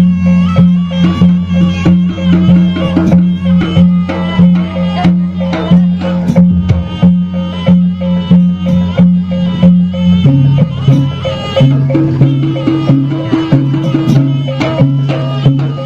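Live traditional jaranan (kuda lumping horse-dance) music: hand drums beat a fast, steady rhythm over held low notes and melodic instruments. The low notes change pitch about ten seconds in.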